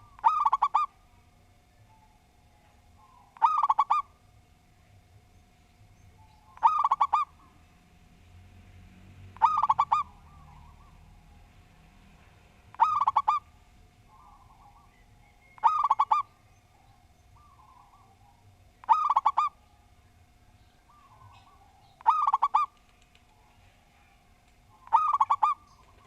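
Zebra dove (perkutut) singing its cooing phrase, a quick run of notes repeated about every three seconds, nine times in all.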